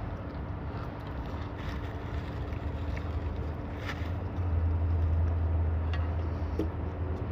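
Steady low background rumble with a faint constant hum, growing a little louder about four and a half seconds in; a few faint clicks.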